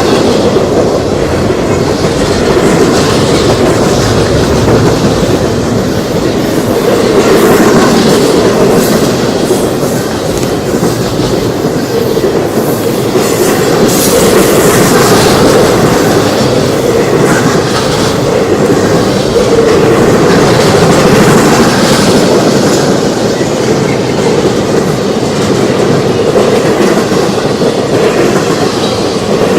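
Freight train cars rolling past close by, a loud steady rumble with wheels clacking over the rail joints.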